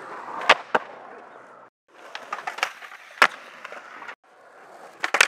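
Skateboard on concrete: wheels rolling, with sharp clacks of the board popping and landing. The loudest clacks come about half a second in and just after three seconds in. The sound breaks off twice into brief silence, at cuts between clips.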